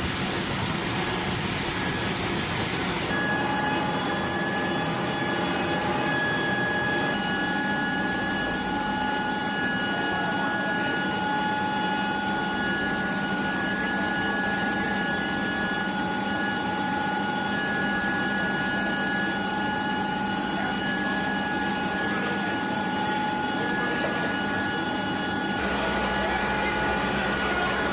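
C-5M Super Galaxy's turbofan engines running steadily, a loud rush with a high, steady turbine whine. The sound changes abruptly about three seconds in and again near the end.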